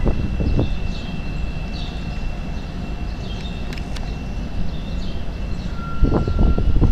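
Chicago Transit Authority rapid-transit train on the elevated track: a steady low rumble with a thin, steady high tone over it. Near the end it grows louder, with a few knocks and a second, lower steady tone.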